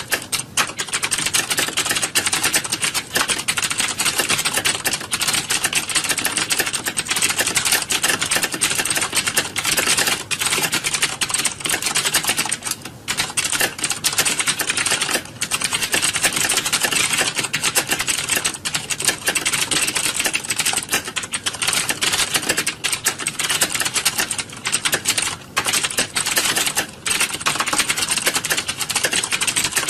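Many computer keyboards being typed on at once, a dense unbroken clatter of overlapping key clicks with only brief lulls, like a hall full of candidates in a typing test.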